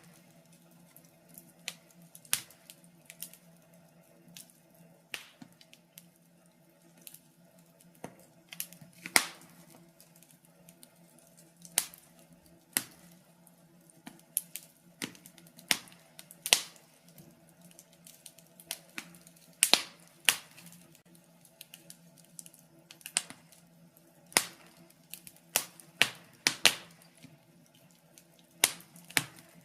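Wood fire in a fireplace crackling: irregular sharp pops and snaps, roughly one or two a second, some much louder than others, over a faint steady low hum.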